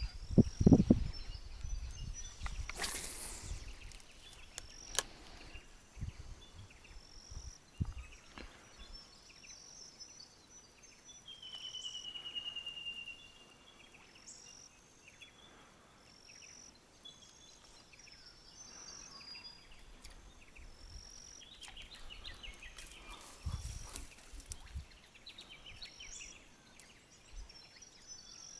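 Bush ambience with birds calling: a short rising chirp repeats every second or two, and a single falling whistle comes about twelve seconds in. A few low knocks and a brief whoosh come in the first few seconds.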